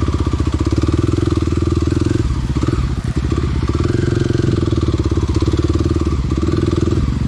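Small dirt bike engine running steadily, its pulsing note easing briefly a couple of seconds in before picking up again.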